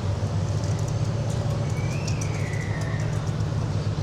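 Steady low rumble of city traffic or engine noise, with a short high whistle-like tone sliding down about two seconds in.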